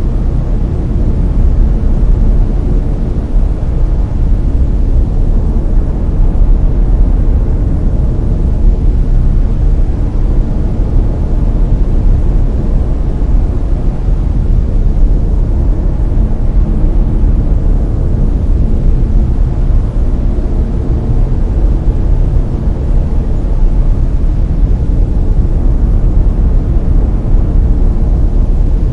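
Layered brown noise: a steady, deep hiss with most of its weight in the low end, unchanging throughout.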